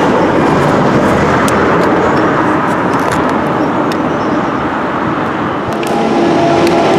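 Underground train running away over the track, a steady rumble with scattered sharp clicks from the wheels on the rails. Near the end a steady hum and a rising whine take over, typical of a train approaching along a tube tunnel.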